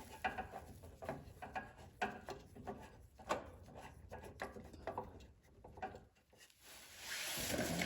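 Light, irregular clicks, taps and rubbing of hand work on a snowblower engine: parts and tools handled while a replacement carburetor is fitted. A steady hiss comes up near the end.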